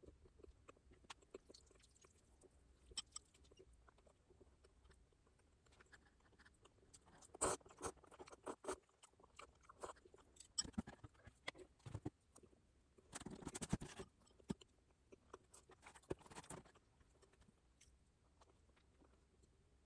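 Close-miked chewing of food, with scattered small wet clicks and a few louder bursts, the longest lasting about a second around the middle.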